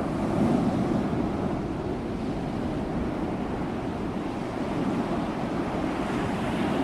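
Ocean surf: waves washing in as a steady, continuous rush with gentle rises and falls in loudness.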